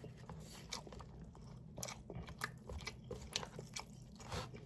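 A person chewing a mouthful of food: faint, irregular mouth clicks and smacks, over a low steady hum.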